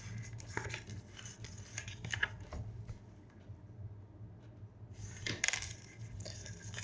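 Tarot cards being handled and laid down on a table: scattered light taps and clicks, with a quieter stretch in the middle.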